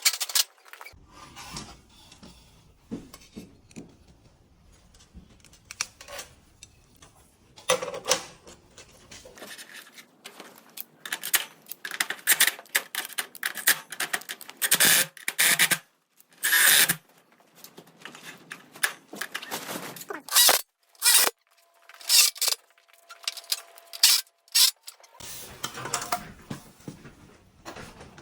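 Irregular sharp knocks, clanks and scrapes of hand work on garage door hardware, coming in clusters that grow denser and louder after about ten seconds.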